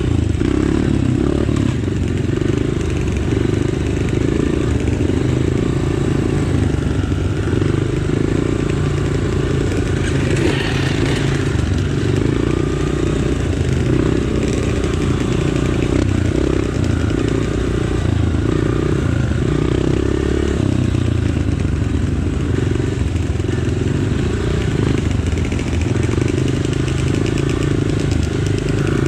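Dirt bike engine running under way on a trail, its revs rising and falling in uneven steps.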